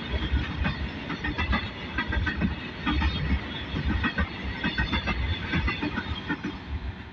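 Goods train of railway tank wagons rolling past close by: a steady low wheel rumble with rapid, irregular clacks and clicks of the wheels over the rail joints.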